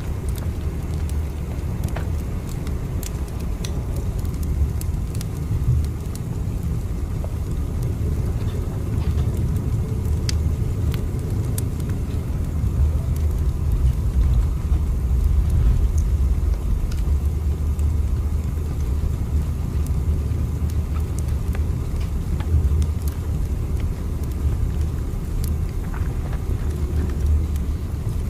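Steady low rumble of a train running, with light scattered clicks over it.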